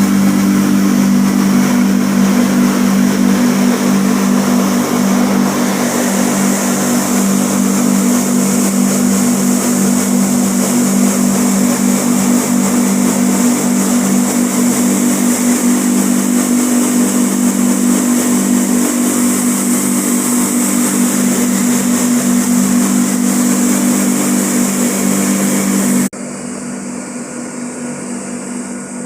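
Flour mill running steadily: a loud, even mechanical hum with a grinding noise over it. About 26 seconds in, it suddenly drops to a quieter, duller running sound.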